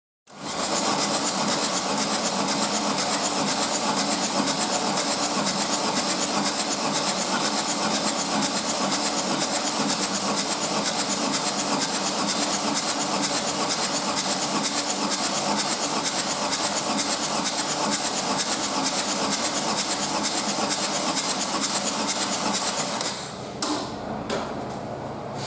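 Opel 1.3 CDTi (Z13DTJ) four-cylinder diesel engine starting on a test stand and running with a dense, steady clatter; it drops quieter and changes near the end.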